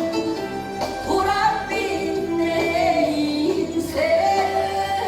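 A voice singing long held, wavering notes over backing music.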